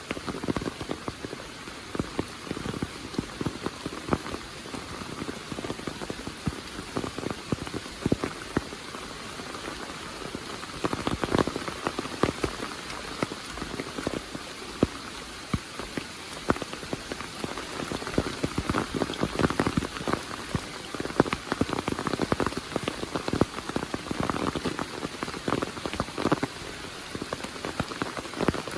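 Heavy monsoon rain pouring steadily, with a dense patter of individual drops striking close by.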